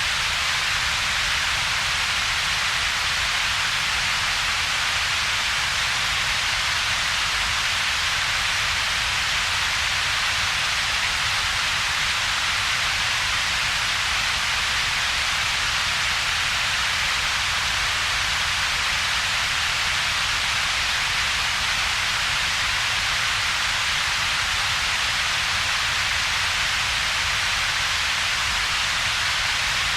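Steady synthetic double-peaked noise: a strong, even hiss centred around 2–4 kHz over a weaker low rumble, with a gap in the low mids between them. It is unchanging throughout.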